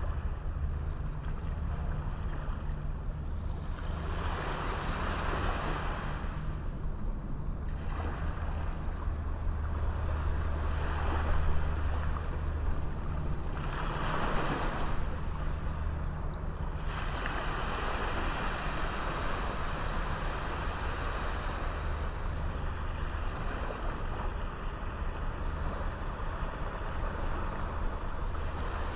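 Sea waves breaking and washing up on a beach in repeated surges that swell and fade every few seconds, over a steady low rumble.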